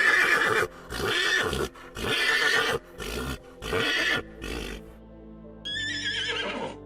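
Horse neighing: a long whinny fading out in the first half-second, then a series of about five shorter whinnies and neighs over the next four seconds, over background music. Near the end there is a brief, different high-pitched sound.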